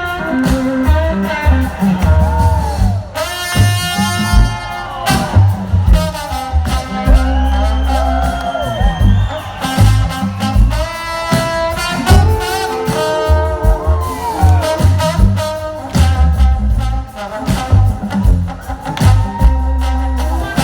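Band music with drums, bass and a singing voice, with melodic lines that slide and bend in pitch.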